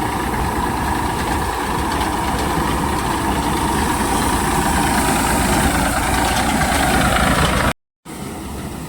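Diesel tractor engine running steadily with a low rumble. The sound cuts out abruptly near the end.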